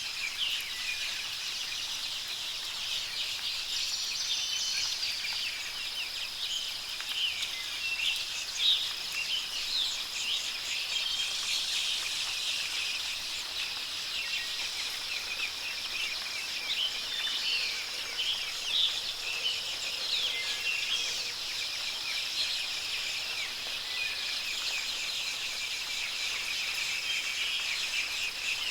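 Many small birds chirping and calling in quick, overlapping short notes, over a steady high insect drone and a soft, even rain hiss.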